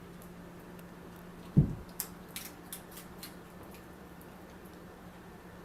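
A single heavy thump about one and a half seconds in, followed by a scatter of light sharp clicks, over a steady low hum.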